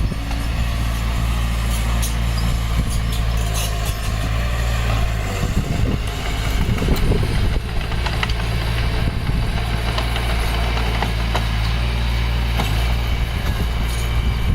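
Heavy diesel engine of earthmoving equipment running steadily, with scattered light knocks and clanks over it.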